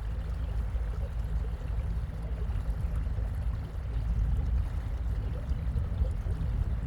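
Small boat under way: a steady low motor hum with water rushing and splashing along the hull.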